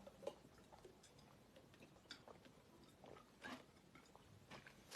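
Faint chewing with a few soft, scattered crunches and mouth clicks, close to near silence.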